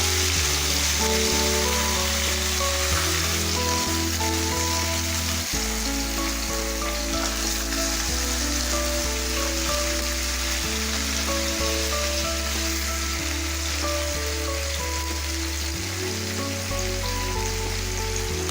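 Large salt-marinated chicken pieces sizzling steadily as they pan-fry in hot oil. Background music with slowly changing notes plays along.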